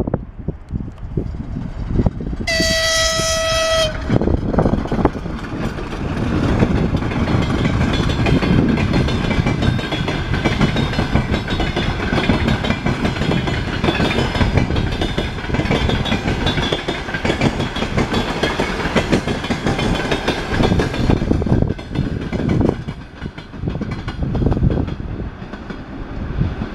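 TEP70 diesel passenger locomotive sounding one short horn blast a couple of seconds in, as a greeting, then passing close with its train, with diesel engine rumble and wheels clattering on the rails. The passing noise eases off over the last few seconds.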